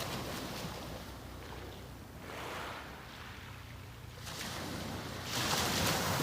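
Sea waves breaking and washing up the beach in a few surges, the loudest near the end.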